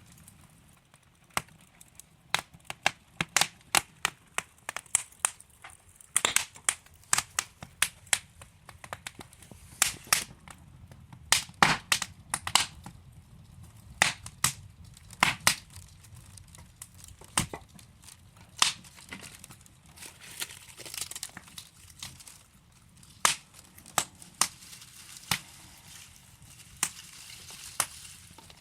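Wood fire crackling: burning logs giving off irregular sharp pops and snaps over a soft low hiss, thickest in the first half and sparser toward the end.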